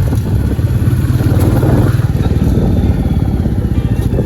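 Motorcycle engine running steadily with a fast, low pulsing beat.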